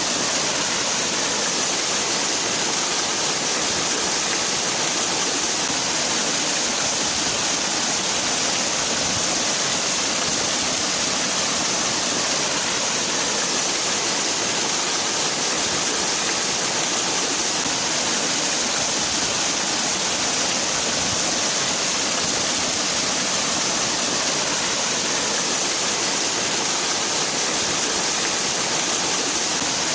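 Natural waterfall: water falling and rushing in a steady, unchanging wash of noise, weighted toward the high end with little low rumble.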